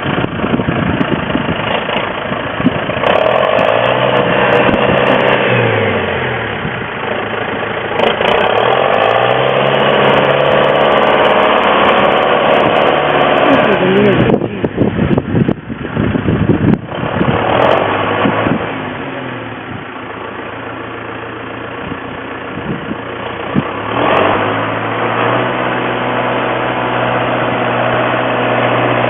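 Tractor engine running, its speed rising and falling several times as the loader is worked. A cluster of sharp knocks breaks in around the middle.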